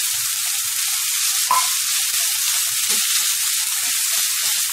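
Raw chicken mince and chopped onions sizzling in a little ghee and oil in a non-stick frying pan, with a steady hiss. A wooden spatula stirs and scrapes through them, making a few short taps.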